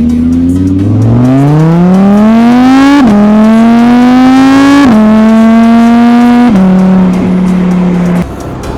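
Audi R8 Spyder engine accelerating hard through the gears. Its pitch climbs steadily, then drops sharply at each upshift, about three seconds in and again about five seconds in, with a smaller step down later. The sound holds steady and then cuts off abruptly near the end.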